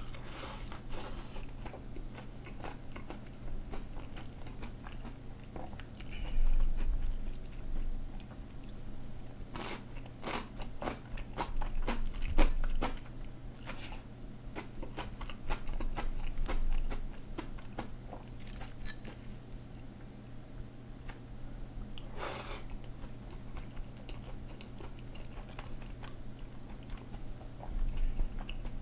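Close-miked eating: crisp bites and chewing of a fried potato croquette, in scattered clusters of crunchy clicks with a brief louder crunch about two-thirds of the way in.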